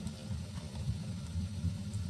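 Wood fire burning in a fireplace: a steady low rumble of the flames with a few faint crackles.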